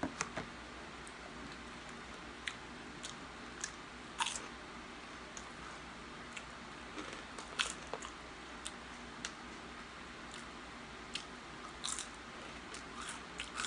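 A person chewing a mouthful of pizza and Flamin' Hot Cheetos: faint mouth clicks and small crunches at irregular moments, a dozen or so.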